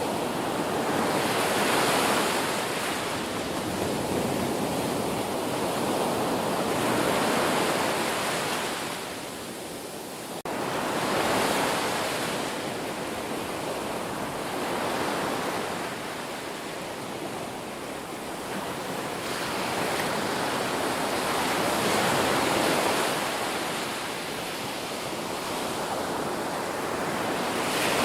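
Ocean waves breaking and washing on the shore, the surf swelling and ebbing every few seconds, with a brief sudden drop about ten seconds in.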